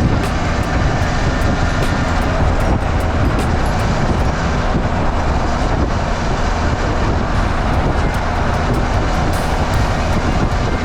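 Engine of a 1972 Yamaha DT-1F 250, a single-cylinder two-stroke, running steadily without revving up or down.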